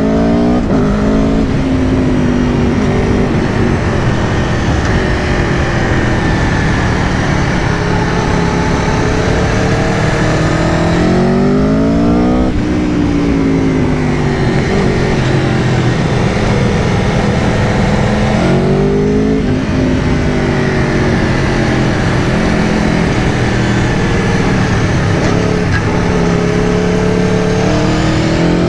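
Aprilia Tuono V4 Factory's V4 engine under way, its pitch rising and falling with the throttle, with the revs climbing hard and then dropping at a gear change about eleven seconds in and again near nineteen seconds, over a steady rush of wind noise.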